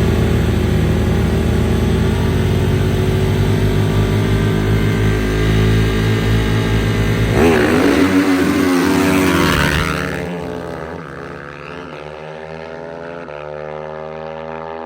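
Dirt bike engines revving loud at close range, then accelerating away. About ten seconds in the sound drops off, and the engine pitch climbs in steps through the gear changes as the bikes pull into the distance.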